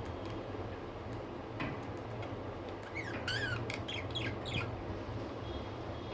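Budgerigar chirping: a quick run of short chirps that bend up and down in pitch, about three seconds in, over a steady low hum.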